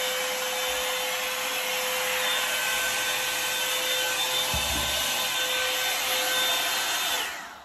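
A Revlon hot-air brush hair dryer running steadily with a rushing airflow and a steady whine from its motor; it is switched off near the end and winds down.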